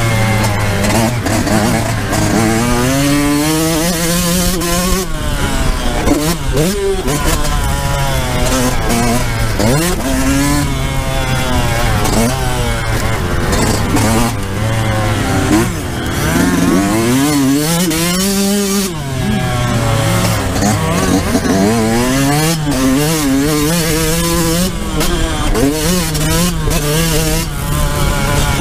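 Yamaha YZ125 two-stroke single-cylinder engine revving hard on a motocross lap, heard close up from the rider's position. Its pitch climbs and falls again and again as the throttle is opened through the gears and shut off for the corners.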